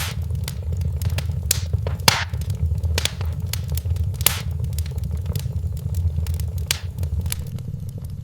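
Wood fire in a fireplace crackling, with irregular sharp pops, a few louder ones about two and four seconds in, over a steady low rumble.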